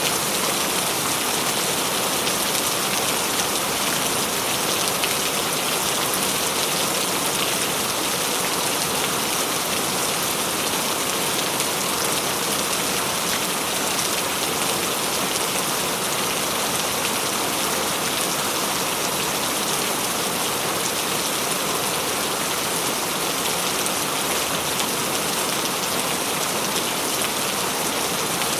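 Steady rain falling: a dense, even hiss of drops with fine scattered patter and no letup.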